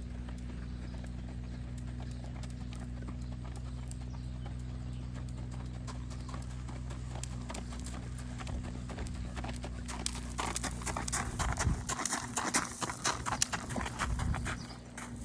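Shod hooves of a spotted saddle horse mare, keg shoes on all four feet, clip-clopping in a quick run of hoofbeats: faint at first, then loud and sharp from about ten seconds in, easing off near the end. A steady low hum runs underneath.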